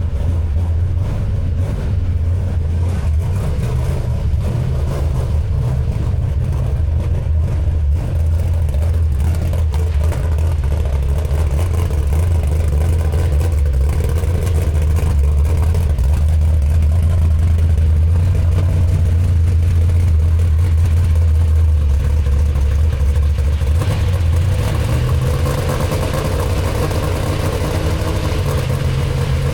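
Chevrolet 6.0-litre LS V8 in a 1986 C10 running steadily at idle; near the end its speed rises and holds at a higher, steady pitch.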